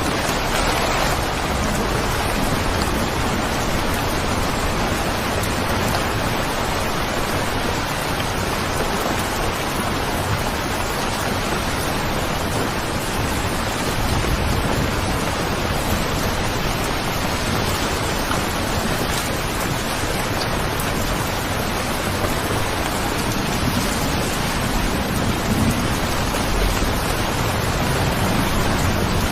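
Steady rain, a continuous even hiss of drops on surfaces, with a low rumble of thunder building near the end.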